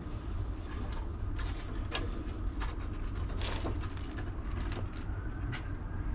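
Irregular light taps and clicks of a sheet-metal panel piece being handled and held against the car body, over a steady low hum.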